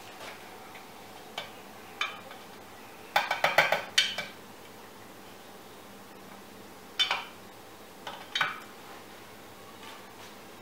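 Kitchen dishes and utensils clinking. There are scattered single clinks, a quick run of five or six ringing clinks about three seconds in, and a few more past the middle.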